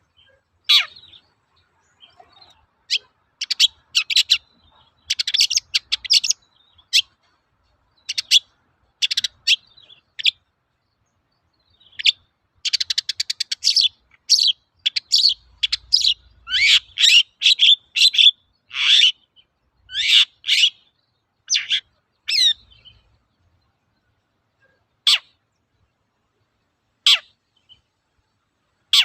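Long-tailed shrike (cendet) singing: sharp, steeply falling notes and fast chattering runs, densest in the middle, thinning to single calls a couple of seconds apart near the end.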